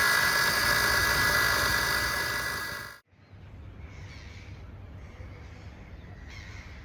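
Electric winch motor whining steadily at a fixed pitch, then cutting off abruptly about three seconds in. A quieter background of hiss with intermittent gusty patches follows.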